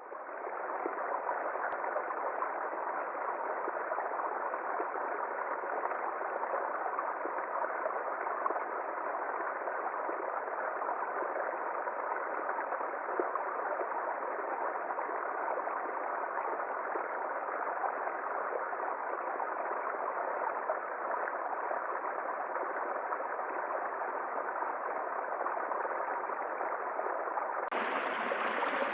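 Steady, unbroken rush of flowing water, like a forest stream, with no footsteps. Near the end it abruptly turns brighter.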